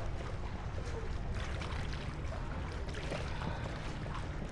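Water splashing and trickling around a kayak as it is paddled, with a few short paddle splashes over a steady low rumble.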